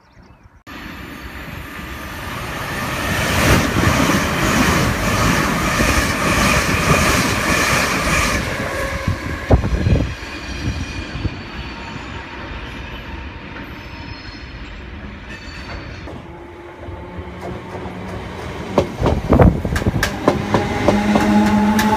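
Electric trains running through a station: first a train passes, its rumble swelling and fading with clattering wheels over rail joints. Near the end a Class 317 electric multiple unit moves alongside the platform, its wheels clacking over joints under a steady electric hum with rising tones above it.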